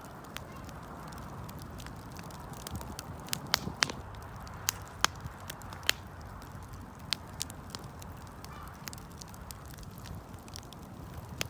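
Wood fire burning: a steady low rush of flame with irregular sharp crackles and pops from the burning wood.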